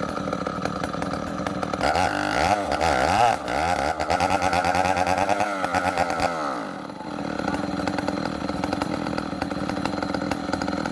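Chainsaw engine running at a steady speed, then revved up about two seconds in, its pitch rising and falling as it works into the tree trunk. It drops back to a steadier, lower running speed near seven seconds.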